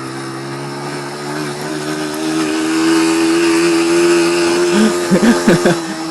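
Motorcycle engine revving hard and held at high revs, getting louder, then rising and falling quickly in pitch for about a second near the end.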